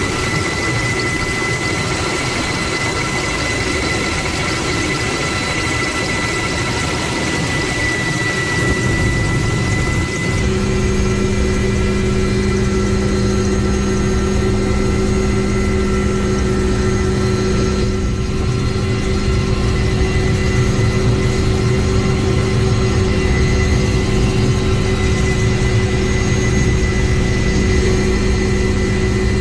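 Firefighting aircraft turbine engine running steadily, with a constant high whine. About ten seconds in, a steady low hum joins in.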